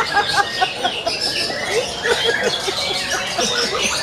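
Several long-tailed shrikes (cendet) singing at once: a dense, overlapping stream of quick chirps, short whistles and rising and falling notes, the mixed mimicked phrases ('isian') that contest birds are judged on.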